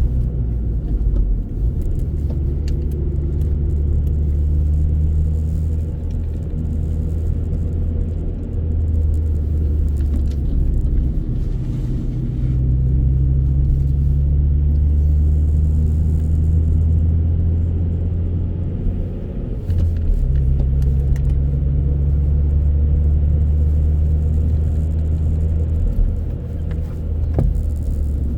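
A car driving: a steady low rumble of engine and road noise, its pitch shifting a little twice.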